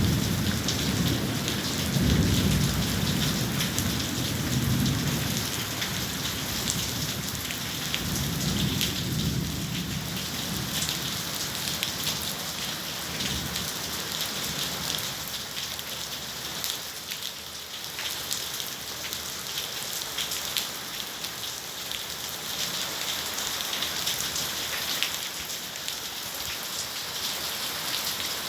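Heavy rain pouring steadily, with many fine drop ticks on hard surfaces. Low thunder rumbles swell and fade several times during the first ten seconds or so.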